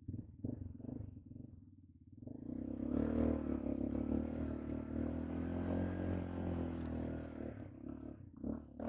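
ATV (quad bike) engine idling, then revved hard for about five seconds from a little past two seconds in, dropping back near the end: a rider driving to free the stuck quad.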